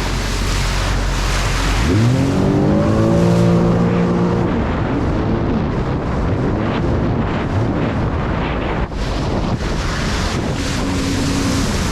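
Jet ski engine climbing in pitch about two seconds in as the throttle opens, then running at speed with its note rising and falling, under heavy wind noise on the microphone and water rush.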